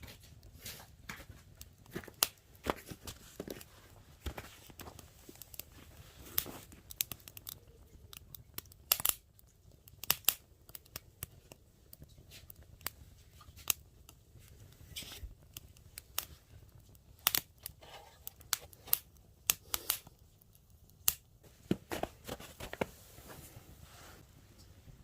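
Small dry twigs snapping and crackling: irregular sharp cracks, sometimes several close together, with short gaps between.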